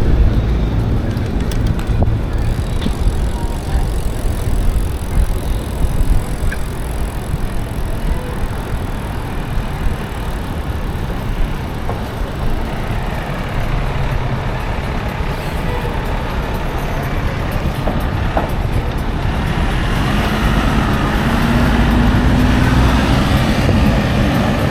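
Wind buffeting the microphone and city traffic noise while riding a bicycle through the streets. Near the end a vehicle engine rises slightly in pitch as it speeds up.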